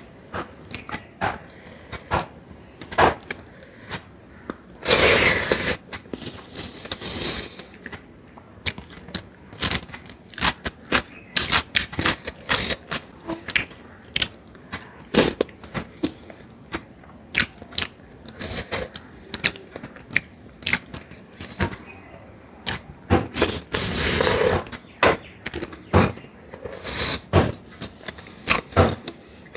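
Close-miked eating sounds from a person eating mutton curry: a steady run of wet chewing and lip-smacking clicks, with two longer, louder noisy stretches, one about five seconds in and one near the end.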